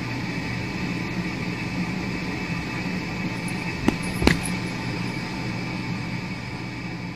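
A steady droning hum with a hiss, unchanging throughout, with two sharp clicks about four seconds in.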